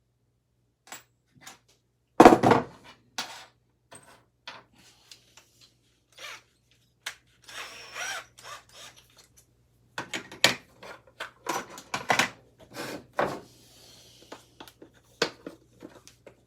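Tools and metal parts being handled on a workbench: scattered clicks and clanks, a loud knock about two seconds in, and two short stretches of scraping noise.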